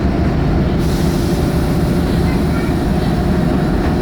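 Vintage rail bus running along the track, heard from inside the car: a steady low rumble of the engine and wheels on the rails, with a higher hiss joining about a second in.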